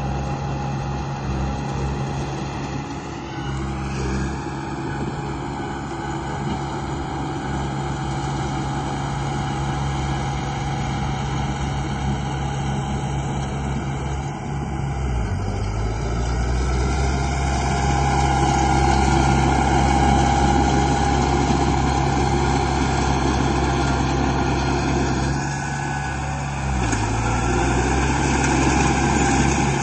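Construction-machine engine sound from a bulldozer and dump truck at work: a steady running drone with a rising whine about four seconds in. The pitch of the drone shifts around the middle and again near the end.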